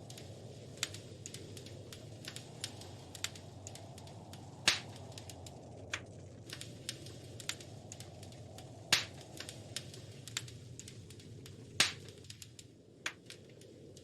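Wood fire in a fireplace crackling: irregular sharp snaps and pops over a low steady rush of flame, with three much louder pops about five, nine and twelve seconds in.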